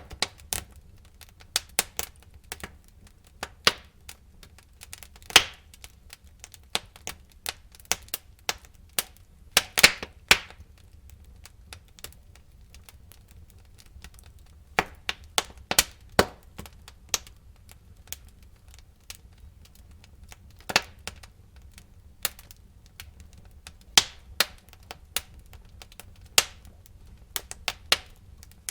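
Wood fire crackling in a fireplace: irregular sharp pops and snaps of burning logs, some louder cracks in clusters, over a low steady rumble of the flames.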